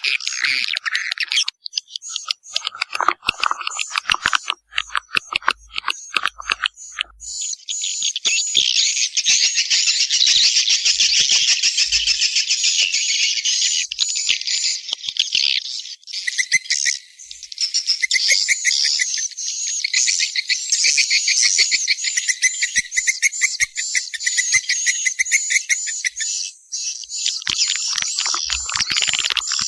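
Swiftlet lure call: a recorded chorus of swiftlet chirps of the kind played to draw swiftlets into a nesting house. It is broken and clicky at first, then from about seven seconds in becomes a dense, unbroken, high twittering.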